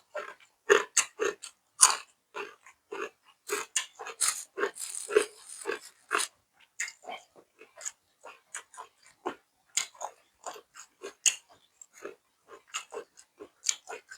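Close-miked eating sounds of a person chewing steamed tongue with raw vegetables: quick, irregular crunches and wet mouth clicks, several each second, with a longer rustling crunch about five seconds in.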